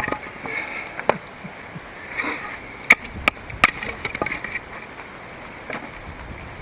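Hatchet chopping wood: a few sharp, separate chops, with three in quick succession about three seconds in.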